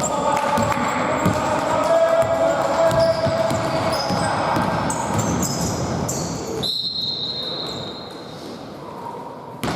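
Basketball bouncing on a gym court during a game, over general court noise; the low background noise drops out suddenly about two-thirds of the way through.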